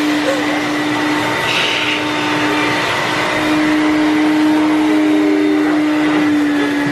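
Vacuum cleaner running steadily with a strong, even hum, its hose nozzle inside a large plastic garbage bag, sucking the air out of it.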